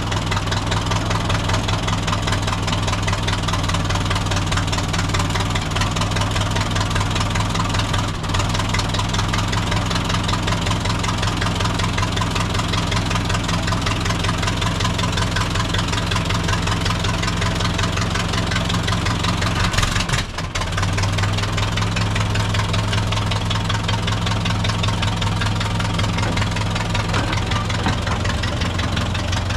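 Plymouth locomotive's engine running steadily just after starting, with a short dip about twenty seconds in.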